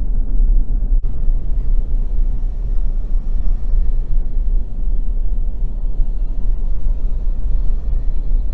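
Loud, steady low rumble, with a single click about a second in.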